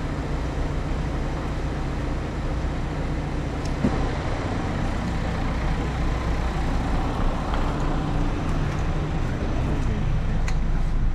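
Car engine idling steadily with a low rumble, heard from beside the car, with a couple of faint clicks.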